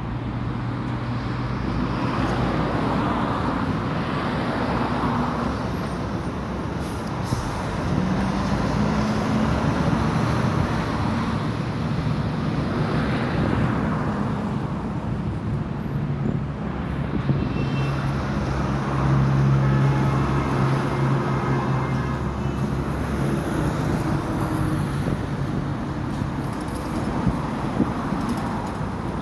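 Road traffic: vehicles passing, their noise swelling and fading every few seconds over a steady low engine drone.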